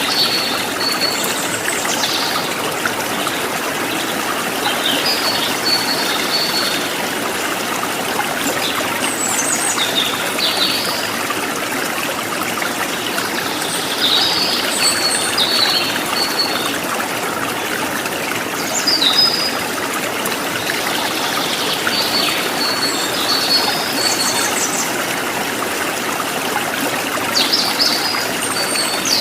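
Steady trickle of running water from a small stream, with a songbird singing a short high phrase every four or five seconds.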